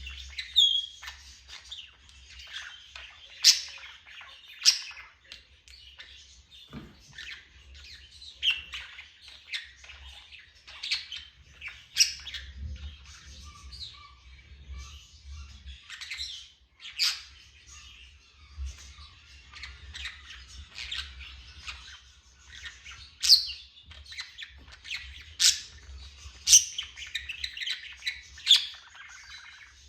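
Pet parrot chirping continuously: a steady run of short, high chirps, broken now and then by a louder, sharp call.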